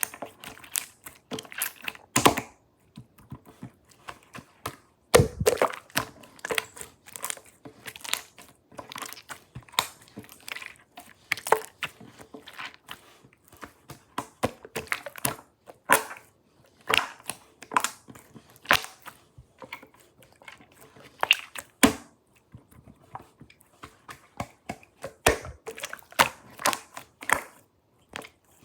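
Slime being squished, poked and stretched by hand, giving a fast, irregular run of small clicks, pops and crackles with a few louder pops.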